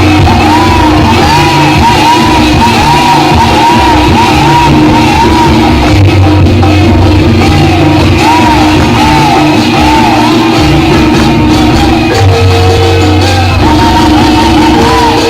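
Loud live jaranan gamelan music: steady held metallophone and gong tones over a drum beat, with a high, wavering melody line running above them.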